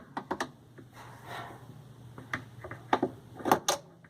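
Scattered clicks and knocks of a tool and metal parts being handled at the washing machine's underside, with a brief scrape about a second in, over a faint steady low hum.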